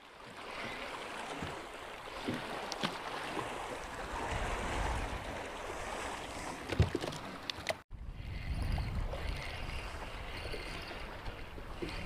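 Wind buffeting the microphone over lapping lake water, with a few faint knocks.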